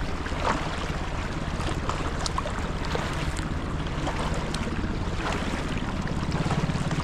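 Kayak paddling on a lake: paddle blades dipping and splashing with water dripping, over a steady rumble of wind on the microphone.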